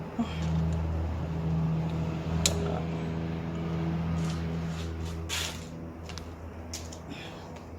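Metal tools clinking and clicking a few times while coil-pack bolts are tightened on a car engine, over a steady low mechanical hum.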